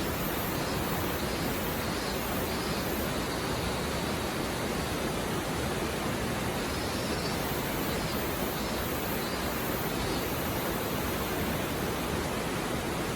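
A river stream flowing, a steady, even rush of water.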